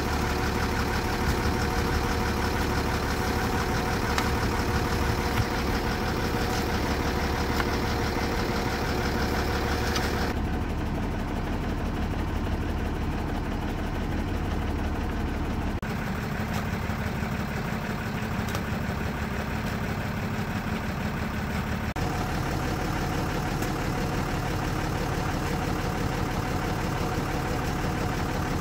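A vehicle engine running steadily, its sound changing abruptly three times.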